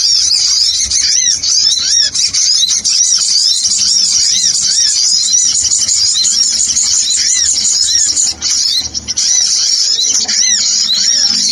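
Sogon sunbird calls played from a bird-trapping lure recording: a dense, continuous stream of quick, high arching chirps, briefly thinning about eight and a half seconds in.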